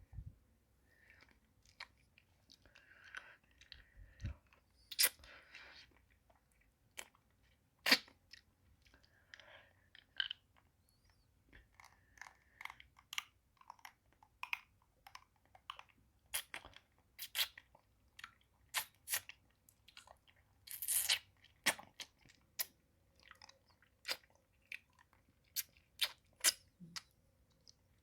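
Close-miked mouth sounds of someone eating a pacifier-shaped hard-candy lollipop: irregular sharp clicks and crunches, with softer sucking noises in between.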